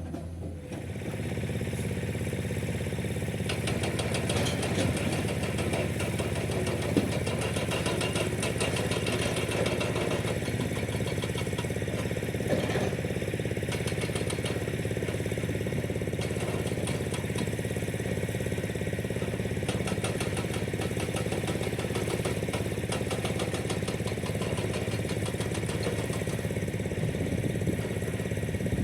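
Excavator-mounted hydraulic breaker hammering limestone in a rapid, steady train of blows, over the excavator's diesel engine running, with a couple of louder knocks about seven and twelve seconds in.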